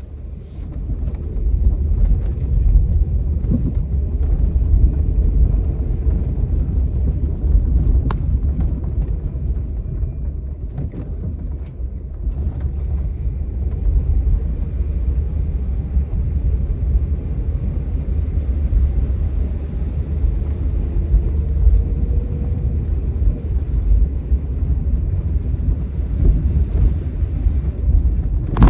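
Steady, loud low rumble of travel noise from a moving vehicle, mixed with wind buffeting, with one sharp click about eight seconds in.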